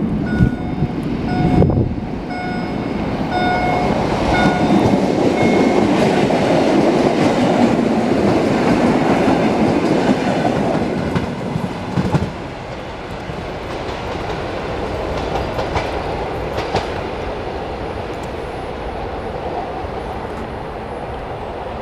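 A passenger train passing close by: loud running and wheel noise on the rails that builds and peaks in the first half, then falls to a lower steady rumble after about twelve seconds. A repeated electronic beeping, about one beep a second, sounds over it for the first five seconds or so.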